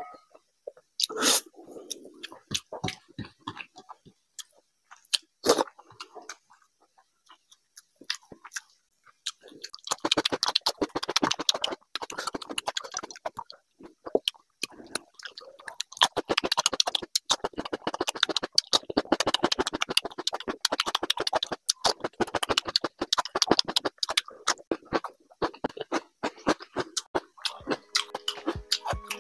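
Close-miked chewing and crunching of raw cucumber slices, heard as dense runs of rapid crisp clicks through the second half. Earlier there are only a few scattered mouth clicks and smacks.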